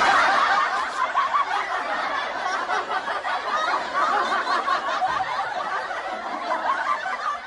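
High-pitched snickering laughter, a continuous sound-effect clip that tapers off near the end.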